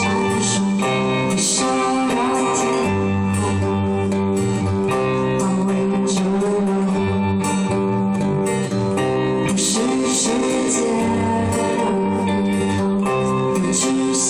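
Live pop music: acoustic guitar with a bass line under a singing voice.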